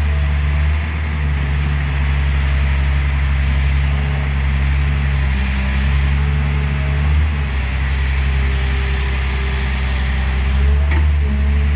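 Tractor's diesel engine running steadily at low revs, its pitch shifting slightly now and then.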